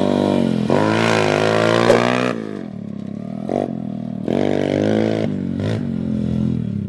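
Pit bike engine revving: high for the first two seconds, dropping back, then climbing again about four seconds in and holding.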